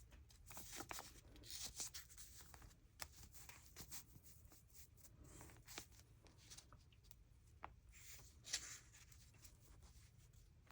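Faint rustling and light taps of paper collage pieces being handled and laid on a journal page, with one slightly louder rustle near the end.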